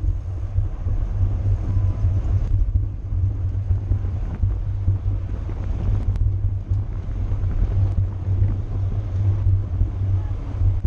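Wind rushing over the microphone at cycling race speed: a steady low rumble with a lighter hiss above it.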